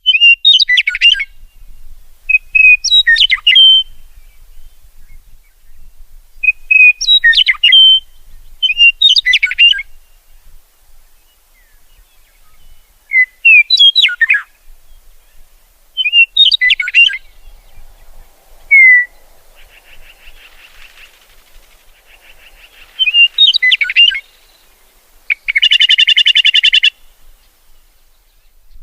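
Songbird singing short, quick warbled phrases over and over, one about every two to three seconds. A buzzy call comes about two-thirds of the way through, and a harsh rattling call comes near the end.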